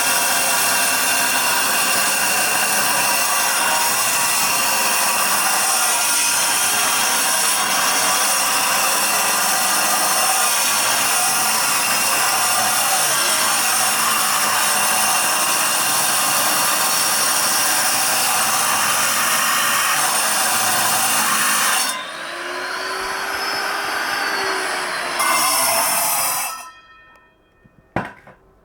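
A power tool working on stone: a loud, steady motor whine over harsh abrasive noise. About 22 seconds in the noise drops and the motor's pitch wavers and sinks, it bites once more briefly, then stops shortly before the end.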